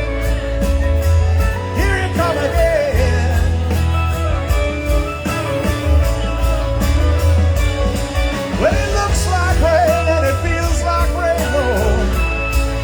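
Live rock band playing a slow song, with drums, bass and a melody line that bends and slides in pitch.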